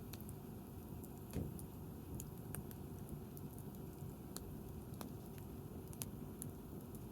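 Wood bonfire crackling: irregular sharp pops over a low steady rumble, with one dull thump about a second and a half in.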